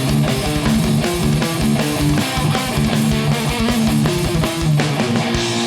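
Heavy metal band playing an instrumental riff: distorted electric guitars holding chugging notes over bass and a rapid kick-drum beat, with no vocals.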